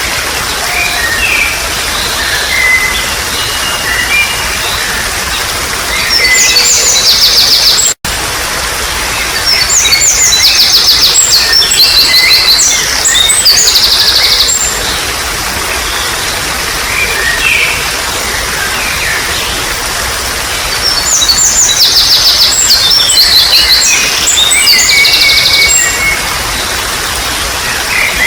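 Babbling water with wild birds singing over it: several loud bursts of fast, high trills and chirps come and go over the steady rush of the water, with a momentary dropout about eight seconds in.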